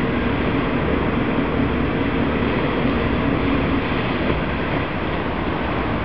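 A steady low engine rumble with a hum that fades about four seconds in, over a constant noisy wash.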